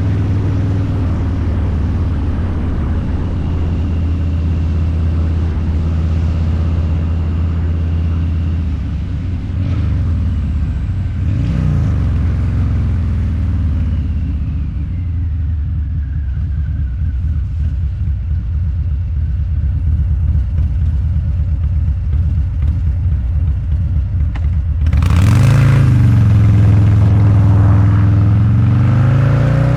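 Harley-Davidson Low Rider's 129 cubic inch V-twin running through a Two Brothers Racing exhaust while riding. It holds a steady cruise, eases off around a third of the way in, then the throttle opens hard about 25 seconds in, the loudest part, with the revs climbing before easing again near the end.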